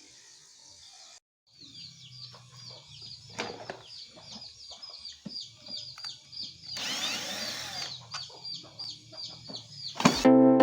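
Short high chirping calls repeating about two to three times a second over a low steady hum, with scattered knocks and a brief hiss about seven seconds in. Electronic music cuts in near the end.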